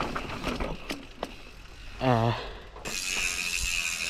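Mountain bike rear freehub ratcheting as the bike coasts: a few knocks at first, then a steady buzz of clicks from about three seconds in. A brief voiced sound from the rider comes about halfway through.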